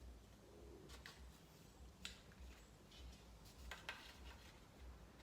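Near silence: room tone with a low hum and a few faint light clicks and taps.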